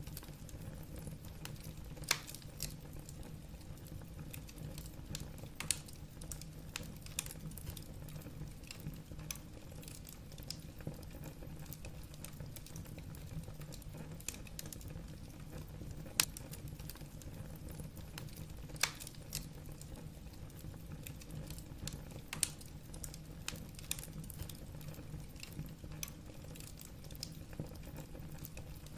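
Wood fire burning in a fireplace: logs crackling with irregular small snaps and a few louder pops over a steady low rumble of the flames.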